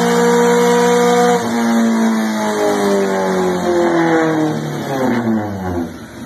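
Dodge Neon SRT-4's turbocharged 2.4-litre four-cylinder engine on a chassis dyno, held at high revs at the top of a pull, then lifted off about a second and a half in, the revs falling steadily as the rollers coast down.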